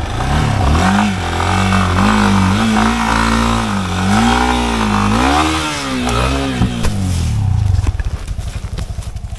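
Yamaha Serow trail bike's single-cylinder four-stroke engine revving up and down repeatedly under the throttle. A couple of sharp knocks come about two-thirds of the way in. Near the end, as the bike goes over in a fall, the engine drops to a low, evenly pulsing idle.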